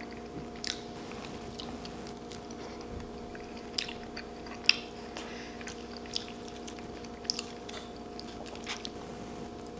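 Close-up chewing and biting of food, with scattered short wet mouth clicks and smacks, over a steady electrical hum.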